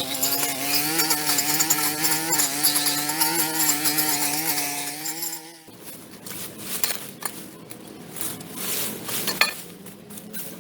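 A small engine-driven power tool running at high speed with a steady, slightly wavering pitch, then cutting off suddenly a little past halfway. Quieter scraping and knocking follow.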